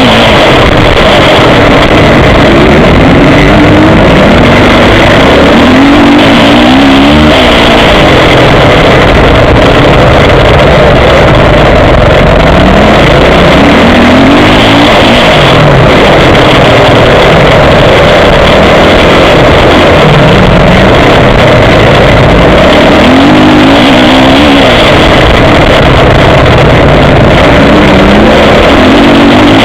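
Motocross bike engine recorded by an action camera mounted on the bike, rising and falling in pitch every few seconds as the rider opens and closes the throttle. The recording is very loud and near clipping throughout.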